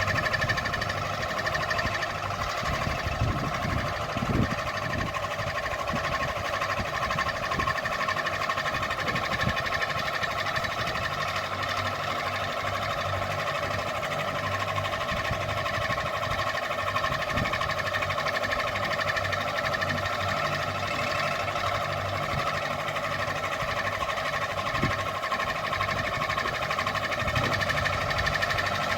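Ceiling fan running steadily: a constant whir with several unchanging humming tones and an uneven low rumble beneath.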